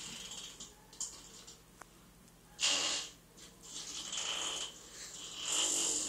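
A man making strange breathy, hissing noises in short bursts, about five in a row with the loudest a little under three seconds in.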